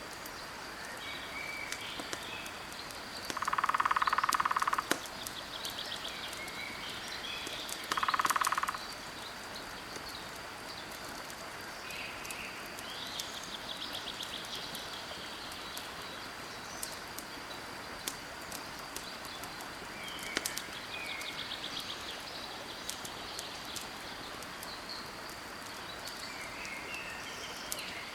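Nature ambience of steady rushing water with a campfire crackling in sharp pops and birds chirping. A loud buzzing animal call, the loudest sound here, comes twice: a longer one about three seconds in and a shorter one about eight seconds in.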